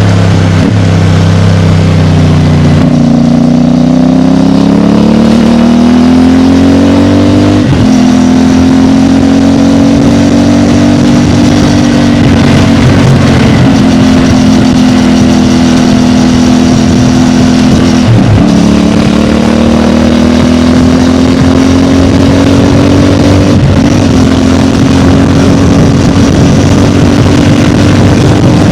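CFMOTO 450MT parallel-twin motorcycle engine on its stock exhaust, under way: the engine note climbs as it accelerates, then runs on at a steadier pitch. Brief drops in the note at a few points, each followed by the note picking up again slightly lower, are gear changes.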